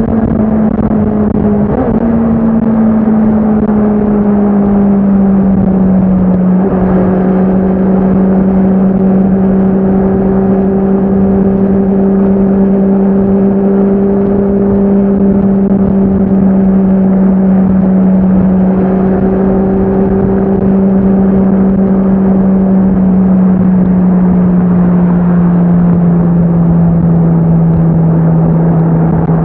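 Honda CBR650R's inline-four engine and exhaust under way, holding a steady high-revving note that eases slowly lower, with small shifts in pitch about two and seven seconds in.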